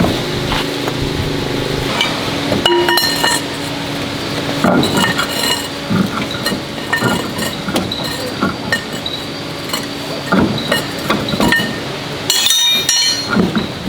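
Metal tools and parts clinking and knocking against each other, several of the knocks ringing briefly, with a short scrape near the end.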